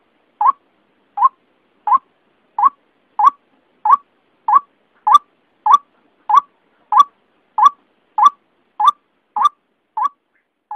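White-breasted waterhen (ruak-ruak) call played as a bird lure: one short, slightly upward-bending note repeated evenly about every two-thirds of a second.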